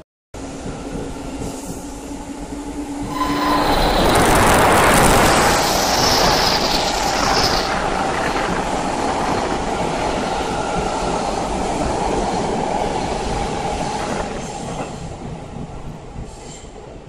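Seibu 9000 series electric train running past close by: the rumble of wheels and motors swells about three seconds in, holds loud and steady, and fades near the end, with a brief high wheel squeal falling in pitch partway through.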